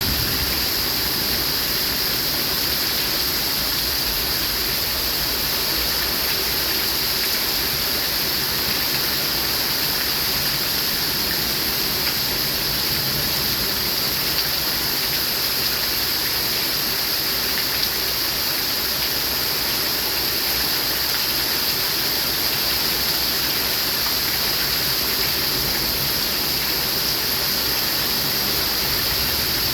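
Rain falling steadily, an even unbroken hiss with no drops or gusts standing out.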